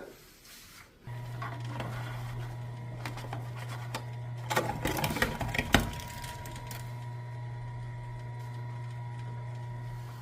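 A small electric shredder starts up about a second in and runs steadily, with a spell of crunching and crackling about halfway through as it grinds up the payment card.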